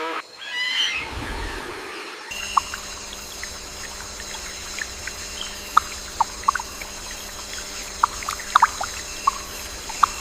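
Steady rainforest-style ambience with a faint constant hum and scattered short, sharp pips, after a brief animal call in the first two seconds.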